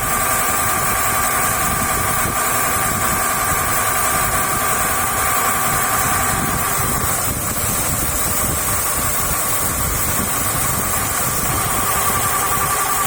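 Engine running steadily through a NICO 3:1 marine reduction gearbox, with a steady high tone over the running noise; the tone wavers and sags a little past halfway, then settles back.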